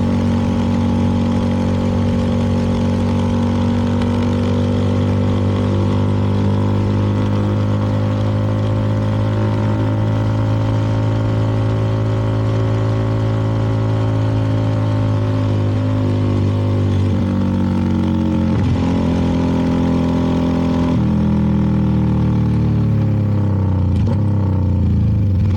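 CFMoto 300NK's single-cylinder engine running at a steady cruise under wind rush. The revs sag slowly, jump up with a downshift about three-quarters of the way through, then fall away as the bike slows.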